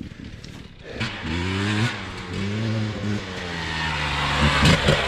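Dirt bike engine revving hard, its pitch climbing and dropping back several times as the rider accelerates through the gears, growing louder toward the end. The first second is quieter.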